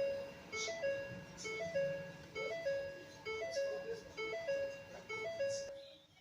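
Electronic chime tune: a short melody of plain beeping notes played over and over.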